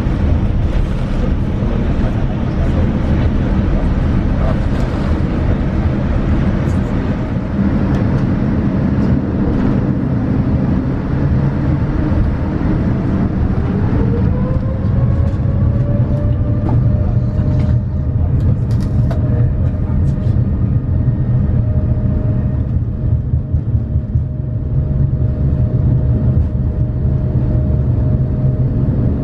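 Boeing 787-9 cabin noise: a steady low rumble, with an engine whine that rises in pitch partway through and then holds steady as the engines spool up.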